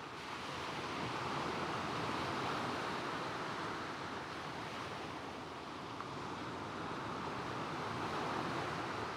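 Gentle waves breaking and washing over a shingle beach, the surf swelling and easing over several seconds, with a light coastal wind.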